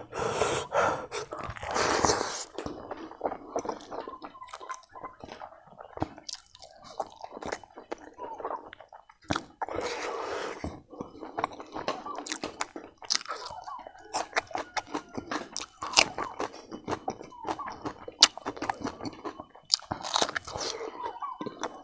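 Close-up chewing of a mouthful of rice and roasted pork fat, with many sharp, irregular wet smacks and clicks of the lips and mouth, picked up by a clip-on microphone.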